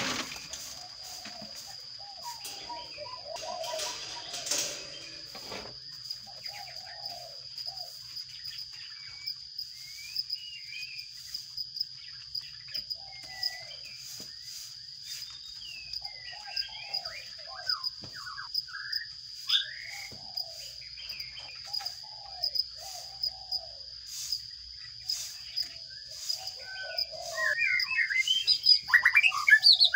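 Sparrows chirping in short scattered calls over a steady high tone, with a dense run of loud, rapid chirps building in the last few seconds.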